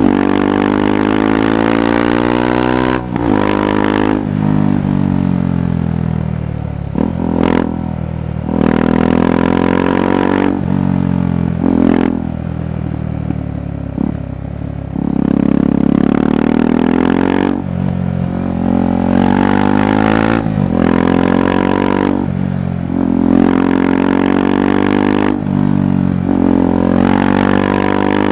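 KTM 390 Adventure's single-cylinder four-stroke engine and exhaust under way, its pitch rising and falling again and again with throttle changes and gear shifts, with short breaks every few seconds.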